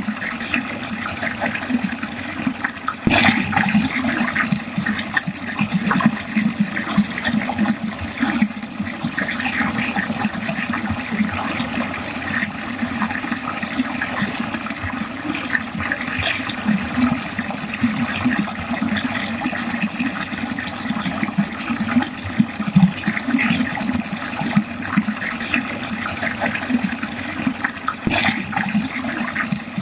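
Water flowing steadily down a drain.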